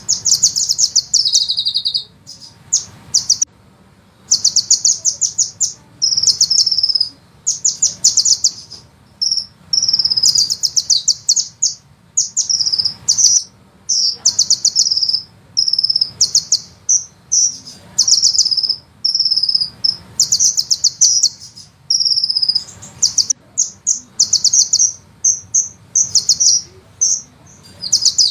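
Sunbird song: fast, high rolling trills and long rattling phrases, repeated again and again with short pauses, over a faint low hum.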